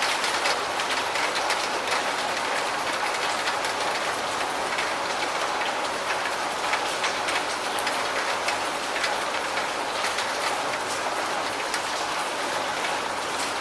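Steady rain falling, an even hiss thick with the patter of individual drops.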